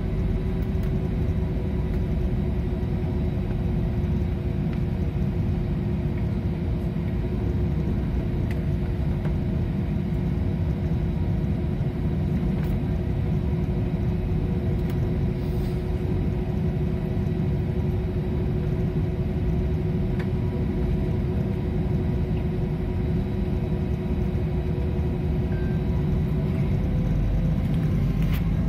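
Airliner engines and airflow heard from inside the passenger cabin: a steady, even low rumble with a constant hum over it that fades out shortly before the end.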